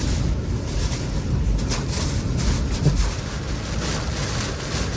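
Hurricane-force wind making a loud, low, gusty rumble, with a couple of sharper hits about two and three seconds in.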